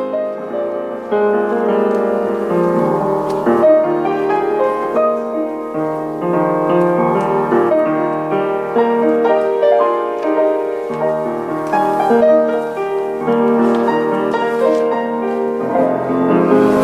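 Piano playing a slow, gentle piece of sustained chords and melody.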